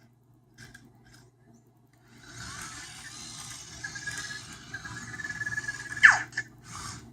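Anki Vector robot's small motors whirring as it moves about, with a steady high whine. Just after six seconds comes a sharp falling sweep, the loudest moment, then two short whirs.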